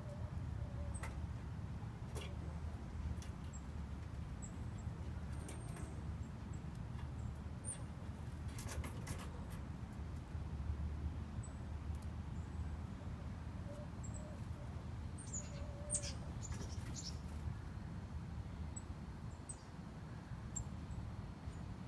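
Small songbirds giving scattered short, high chirps over a steady low background rumble, with a few sharp clicks, clustered about nine and again about sixteen seconds in.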